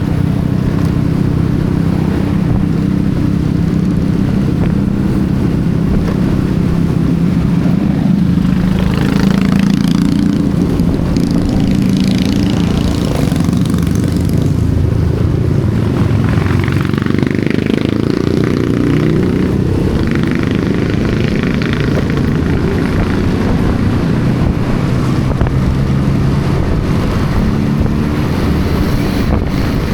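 Motorcycle engine running under way, its note rising and falling in pitch partway through as the speed changes.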